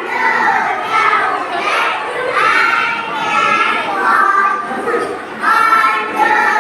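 A group of children chanting a rhyme in chorus, in short, evenly paced phrases.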